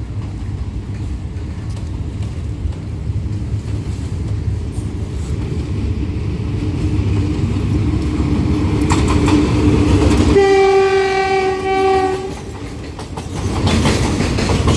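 SRT GEA-class diesel locomotive No. 4542 approaching with its engine rumble growing steadily louder. It sounds its horn once, a steady chord of about two seconds, a little past two-thirds of the way through. Near the end, container flat wagons roll past with wheels clattering over the rail joints.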